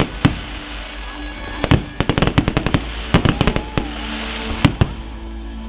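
Fireworks and firecrackers going off in a rapid, irregular string of sharp bangs, densest about a third of the way in and again near the end, with music playing underneath.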